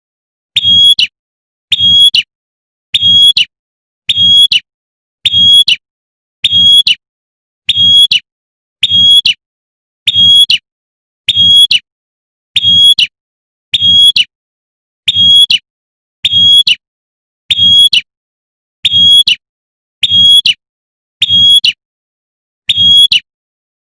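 A female prinia (prenjak) repeating its short, sharp 'tembakan' call about once a second at a perfectly even pace, the call a female uses to summon a male.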